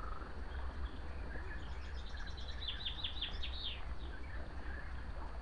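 A small bird singing a quick run of five or six falling notes about halfway through, with fainter chirps around it, over a steady low rumble.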